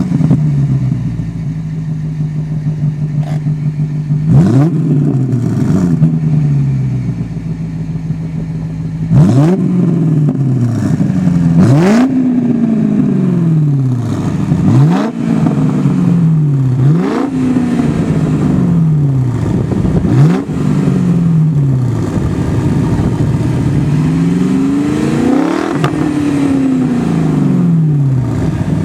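BMW 545i's 4.4-litre V8 through Cherry Bomb glasspack mufflers, idling steadily at first and then blipped repeatedly, each rev rising sharply and dropping back to idle. Near the end comes one longer, slower rev that climbs and falls back.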